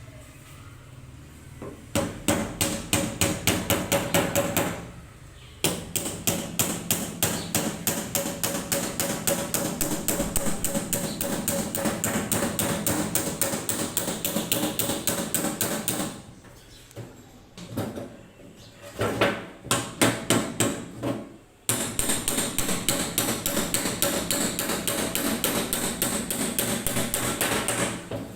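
Rapid hammering on a tin oil can, about five even blows a second with a faint metallic ring, in long runs broken by two pauses.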